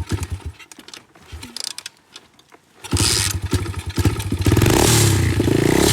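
A cold 125cc dirt bike engine being started: it sputters and dies within the first half second, then after a pause catches about three seconds in and keeps running, revving up briefly near the end.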